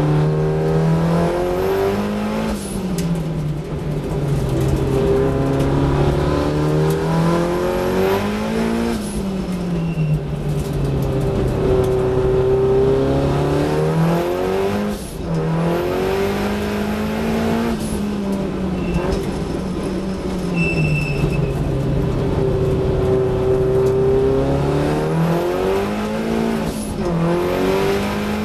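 Datsun 1600 race car's four-cylinder engine heard from inside the cockpit at racing speed, its revs climbing and dropping again and again as the car accelerates along straights and lifts off for corners, with sharp breaks in pitch at gear changes.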